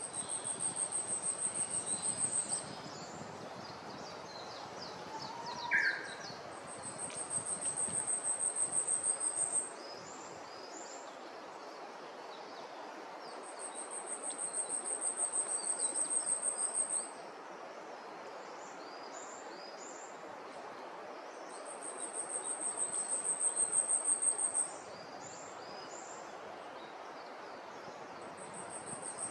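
Asian stubtail singing: a very high, thin, insect-like series of rapid notes that swells in loudness over about three seconds and then stops abruptly, repeated about every seven seconds. A brief rising note from another source stands out about six seconds in.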